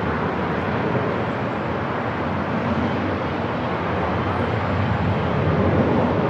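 Steady airport ambience: an even, continuous rumble and hiss with no distinct events.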